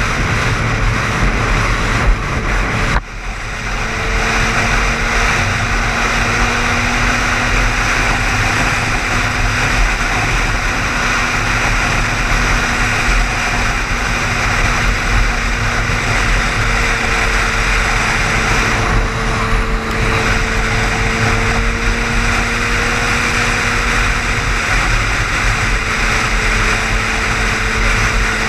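Car driving at highway speed: steady loud road and wind noise with a constant low hum. The sound briefly drops out about three seconds in.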